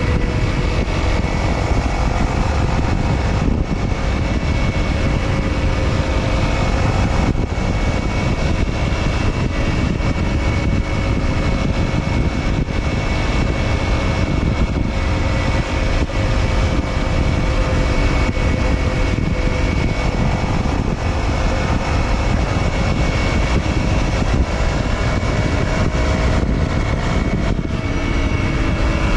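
Honda CRF250L's single-cylinder four-stroke engine running through an SP Tadao Power Box header and aftermarket silencer while riding. The engine note holds steady, rising and falling a little in pitch with small throttle changes.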